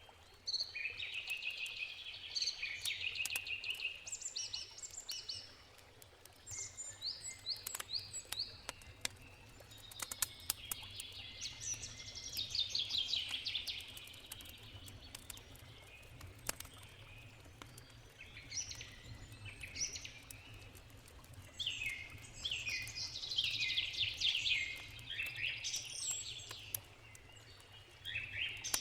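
Forest birds singing in repeated bursts of rapid, high chirping trills, over scattered sharp crackles from a campfire and a steady low rush of a river.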